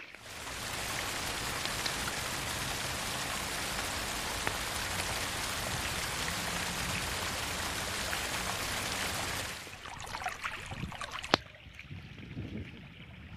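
Steady hiss of heavy rain and rushing water. It stops abruptly about nine and a half seconds in, leaving quieter water sounds and one sharp click.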